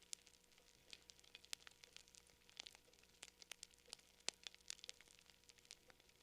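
Campfire crackling softly: irregular sharp pops and snaps of burning wood, several to the second, a few louder than the rest.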